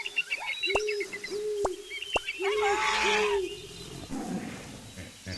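Animal calls: a low arched note repeated several times, with higher chirping over it and a short noisy rush about three seconds in.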